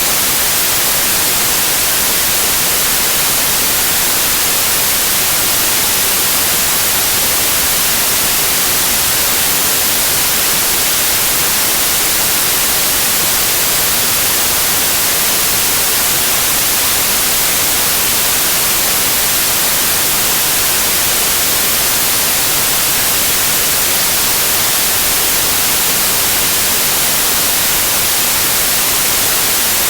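Steady TV-static white noise: an even, unchanging hiss, brightest in the high end.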